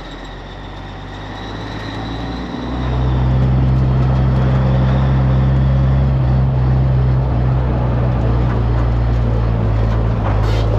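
Vehicle engine heard from inside the cab as it pulls away: the engine note builds about two and a half seconds in, then runs steadily and loudly.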